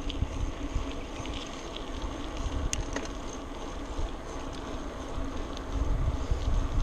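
Wind buffeting the microphone of a camera carried on a moving bicycle, with a steady low rumble and scattered small clicks and rattles, one sharp click a little under three seconds in. The wind rumble grows stronger near the end.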